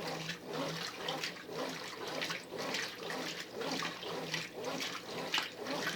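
Brastemp Ative 11 kg top-loading washing machine agitating its load in water. The motor hums, and water and clothes slosh in even surges about twice a second as the agitator turns back and forth.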